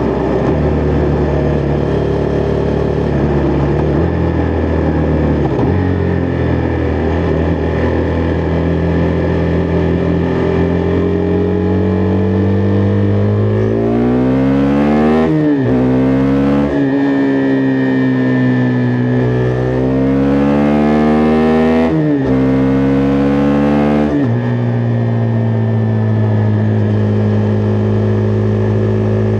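Husqvarna Vitpilen 401's single-cylinder engine under way on the road. It holds a steady pitch, then about halfway through it revs up and drops in pitch at two or three gear changes, rising again between shifts, before settling into a steady cruise.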